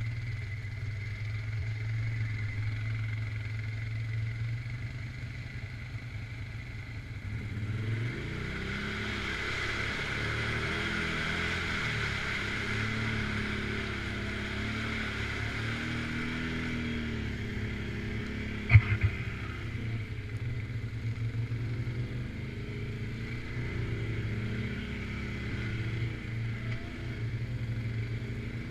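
ATV engine running steadily, then revving and working harder from about eight seconds in, its pitch wavering. A single sharp knock about two-thirds of the way through is the loudest sound.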